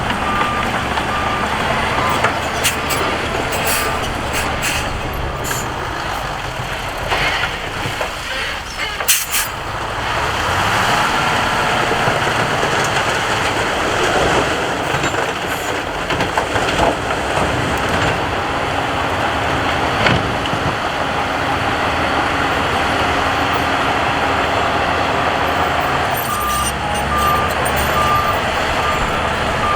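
Heavy diesel earthmoving machinery running steadily, with a reversing alarm beeping at the start and again near the end. Several sharp knocks come in the first ten seconds.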